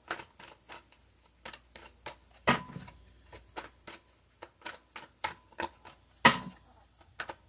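Tarot cards being shuffled by hand: a run of short, irregular card clicks and flicks, with two louder slaps about two and a half seconds in and again near six seconds.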